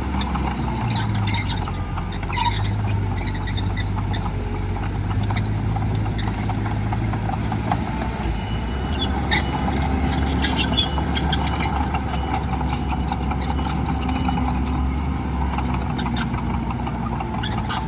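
Heavy diesel earthmoving machinery running steadily, a low engine drone with scattered sharp clicks and knocks over it.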